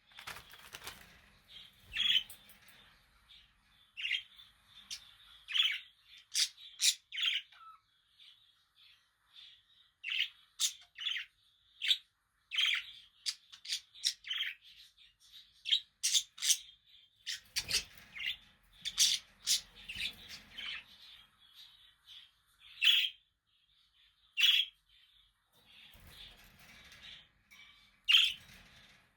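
Budgerigars chirping: a quick, irregular run of short, sharp chirps and squawks, with a faint low rustle twice along the way.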